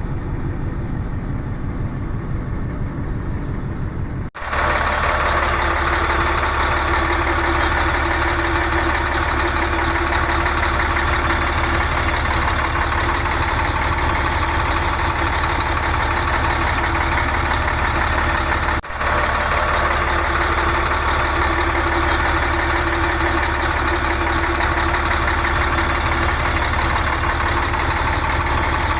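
Scania diesel bus engine idling steadily. It cuts off sharply twice, about four seconds in and again around nineteen seconds, and is louder and hissier after the first break.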